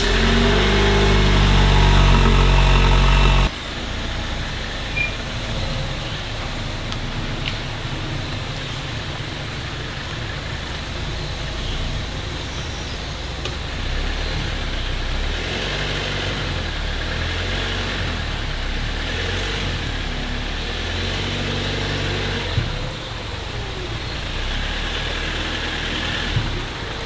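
Jeep Wrangler engine running just after starting, loud and steady for about three seconds, then quieter and steady, its note rising and falling a little as it moves off.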